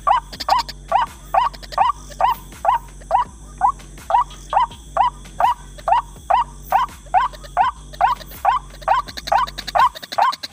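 White-breasted waterhen (ruak-ruak) calling: a fast, even series of short rising notes, about two a second, with a low hum underneath that stops near the end.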